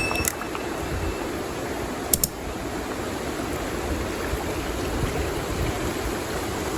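Stream water flowing in a steady rush, with a sharp double click about two seconds in.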